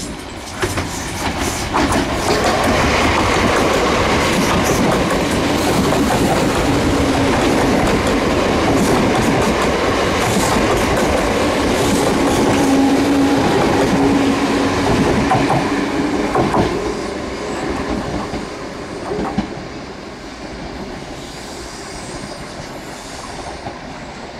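A train running past on the track: wheels clattering over the rail joints with some wheel squeal. It gets loud about two seconds in, stays loud for about fifteen seconds, then fades away.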